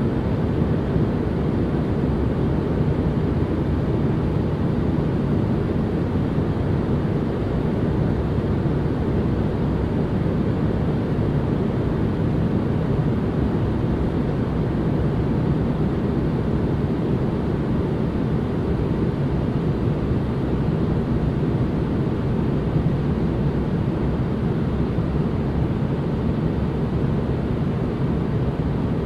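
Continuous relaxation noise: a steady, even hiss weighted toward the low end, so it comes across as a deep rumble with no changes or events.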